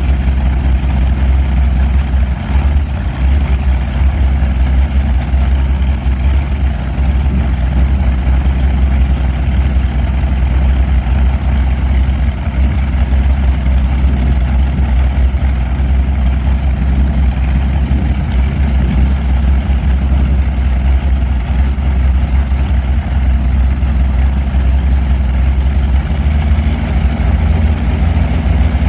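Allison V-1710 V-12 aircraft engine running loud and steady at a low speed, its note rising a little near the end.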